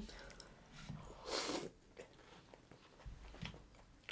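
Close-miked eating sounds: soft chewing and mouth noises from people eating spoonfuls of chocolate lava cake with ice cream. A brief louder wet noise comes about a second and a half in.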